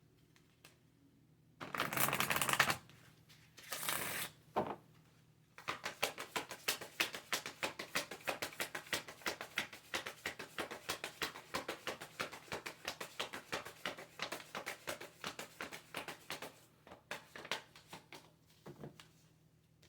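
A deck of cards being shuffled by hand: two short riffling bursts in the first few seconds, then a long run of quick card clicks that thins out near the end.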